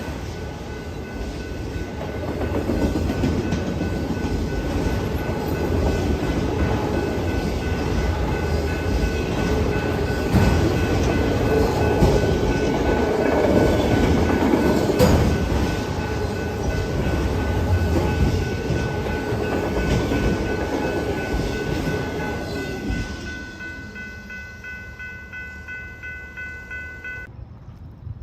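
A train passing, its wheels and cars rumbling and clattering loudly for about twenty seconds, then dropping away. A steady high-pitched ringing tone sounds throughout and cuts off suddenly near the end.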